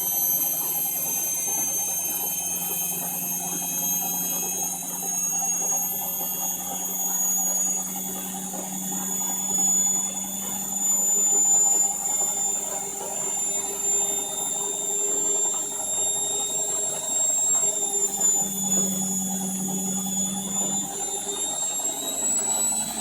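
Indesit My Time washing machine running its final spin, with a steady high-pitched motor whine over a low hum. The tones drift slowly and dip slightly in pitch near the end. The machine is in a suds lock caused by excess foam from detergent added to the final rinse.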